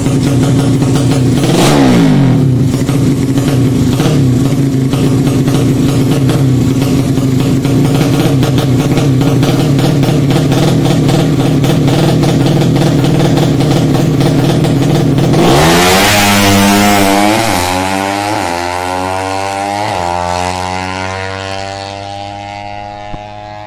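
200cc horizontal-cylinder drag-bike motorcycle engine held at high, steady revs for about fifteen seconds, with one quick dip near the start. Then the revs drop and waver down in several short blips while the sound fades.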